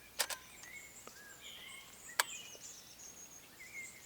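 Woodland birds singing faintly, with a sharp double click near the start and a single sharp click about two seconds in.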